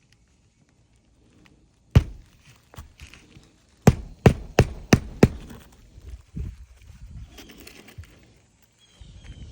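Hammer blows on a shingle roof: one sharp strike about two seconds in, then five quick strikes in a row, followed by lighter knocks and shuffling.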